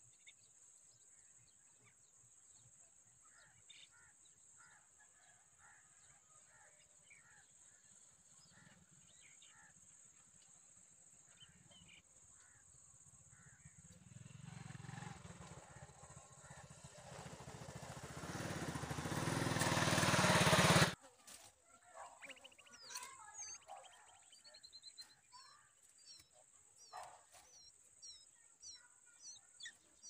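Faint bird chirps and calls over a steady high hiss. A broad rushing noise builds over several seconds into the loudest sound, then stops abruptly. It is followed by quick series of short, high, falling chirps.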